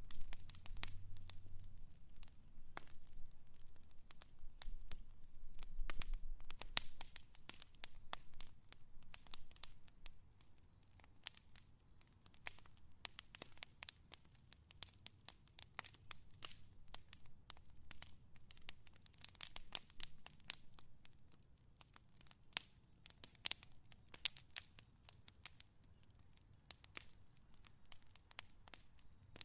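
A fire crackling, with many irregular sharp pops and snaps. The first several seconds are louder and denser, over a low rumble. After that the pops come sparser.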